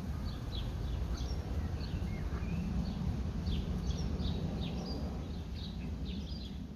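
Several small birds chirping and singing in short, overlapping phrases, over a steady low rumble of background noise.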